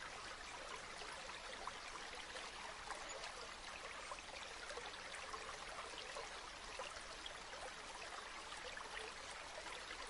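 River water flowing steadily: an even wash of water with many tiny splashes and trickles in it.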